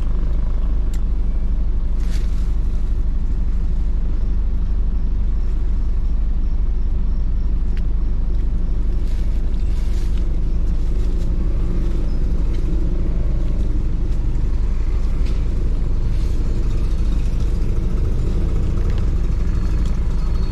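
Steady low rumble of a motor vehicle, with a few faint clicks scattered through it.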